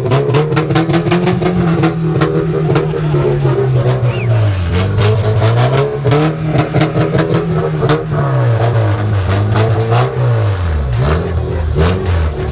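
SUV engine being revved in place: the engine note climbs and holds, drops back and climbs again several times, with a few quick blips of the throttle near the end. Many sharp clicks sound over the engine throughout.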